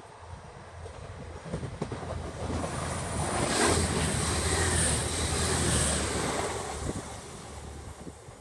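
Diesel passenger train running past alongside the platform. Engine rumble and rail noise build up, then peak for a few seconds with a high-pitched squeal, and fade away near the end.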